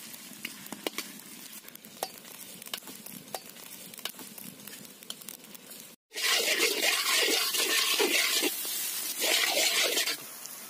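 Onions and whole spices frying in hot groundnut oil in an iron kadai, stirred with a spatula that scrapes and ticks against the pan. The sizzle is soft at first; about six seconds in, after a brief cut, it turns much louder, then eases near the end.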